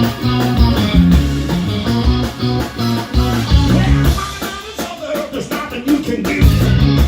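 A blues band playing live, with a repeating guitar and bass riff that thins out about four seconds in and comes back near the end.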